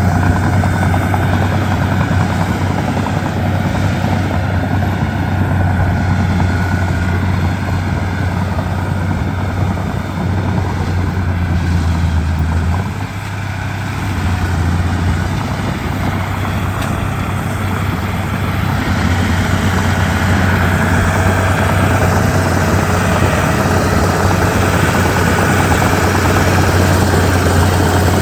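Komatsu D31P bulldozer's diesel engine running steadily with a low drone, easing off briefly about 13 seconds in before picking up again.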